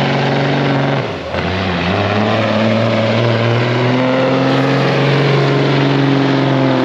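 Semi tractor's diesel engine under full load, pulling a sled. Its note dips briefly about a second in, then it pulls on steadily at a lower pitch.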